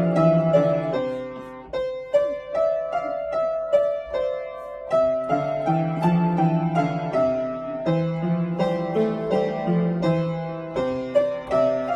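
Solo piano playing a melody over a lower accompaniment; the low part drops out for about three seconds near the start, leaving the melody alone, then returns.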